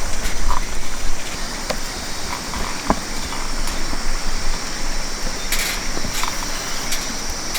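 Campfire cooking: a steady sizzling hiss with scattered sharp pops and crackles from the fire.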